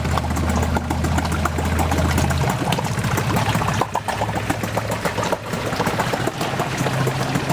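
A 4 hp Yamaha two-stroke outboard motor running at a fast, even idle, with a rapid steady beat of firing strokes; its pitch steps up slightly about two and a half seconds in. The owner says the motor needs its carburettor gone through and properly adjusted.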